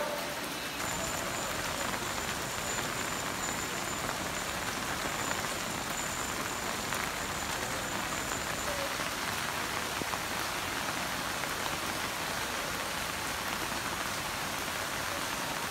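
Heavy monsoon rain pouring down, a steady dense hiss of rain on roofs, leaves and standing floodwater.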